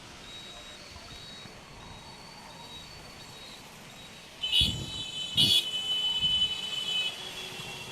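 Road traffic with a steady hiss and a faint, repeating high beep, then vehicle horns honking loudly from about four and a half seconds in.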